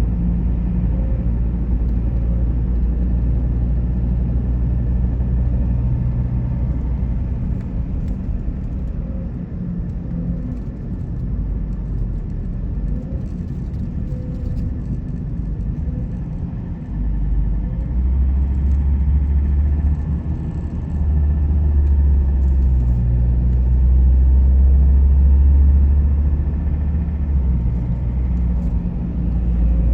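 A car driving, with a steady low road and engine rumble that grows heavier about halfway through.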